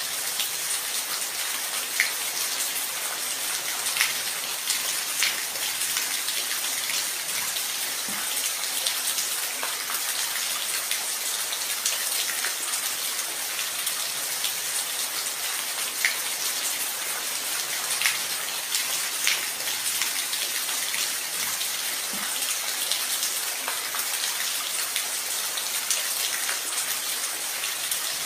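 Steady rain, an even hiss with scattered louder drops striking a surface every second or two.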